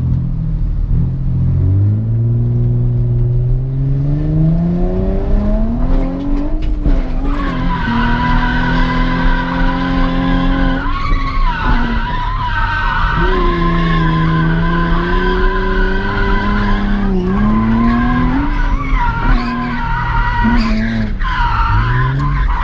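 Drift car's engine pulled up under power, its pitch climbing for the first several seconds and then held high, dropping and climbing again a couple of times. From about a third of the way in, the rear tires squeal steadily as the car slides.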